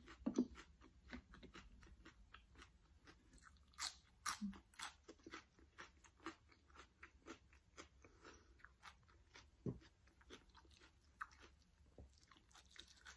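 Close-miked eating sounds: a person biting and chewing crisp food in many small, quick crunches, the loudest cluster a few seconds in.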